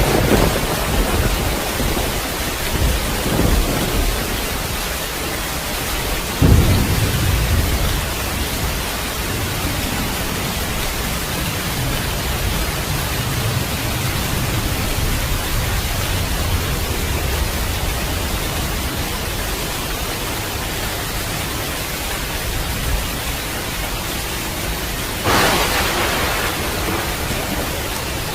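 Thunderstorm: steady rain with thunder. A rumble fades away at the start, a sudden clap about six seconds in rolls on for several seconds, and another crack comes near the end.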